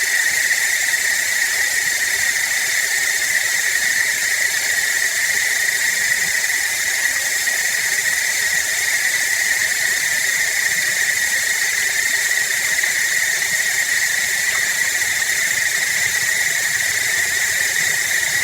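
Steady rushing hiss of running water altered by a voice-changer effect, with an even, unbroken level and a strong high band in the hiss.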